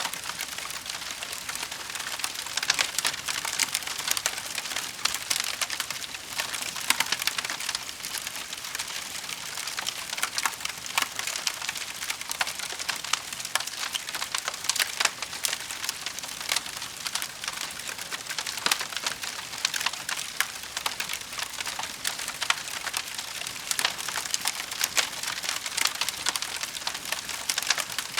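Wood fire burning with continuous crackling and frequent irregular sharp pops.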